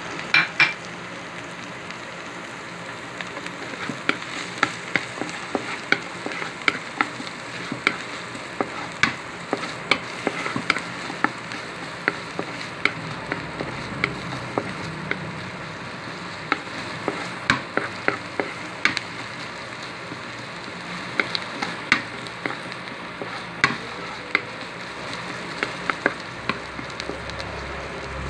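Chopped red onion and garlic sizzling in hot oil in a metal wok, stirred with a wooden spatula, with frequent sharp clicks over the steady hiss.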